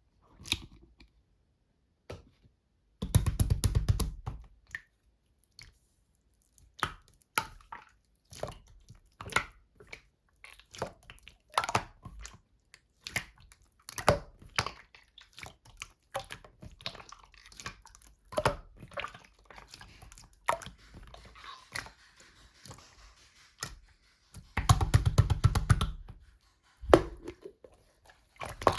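Slime being squished and pressed by hand, giving scattered clicks and pops. Twice, about three seconds in and again near the end, there is a run of rapid crackling pops lasting a second or two.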